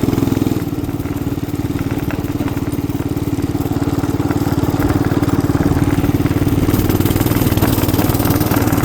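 Small 212 cc single-cylinder engine running steadily under way, with a fast even firing beat that grows slightly louder in the second half.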